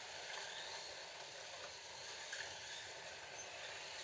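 Scalextric slot cars running on the plastic track: a steady whir of small electric motors and tyres and guides on the track.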